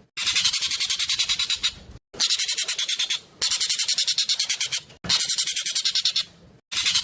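Jovin bird (Asian glossy starling) calling in fast, tightly packed strings of sharp high-pitched notes, about ten a second, in four bursts of a second and a half each with short breaks between them.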